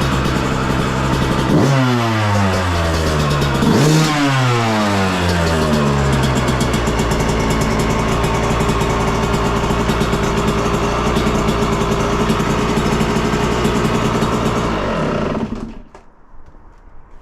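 Two-stroke engine of a 2022 Yamaha YZ125 dirt bike fitted with an FMF Shorty silencer, blipped twice in quick revs about a second and a half and four seconds in, then running steadily until it is shut off near the end.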